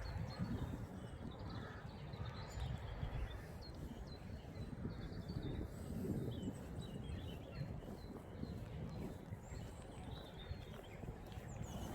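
Small birds chirping and singing, with many short calls throughout, over a louder, uneven low rumble.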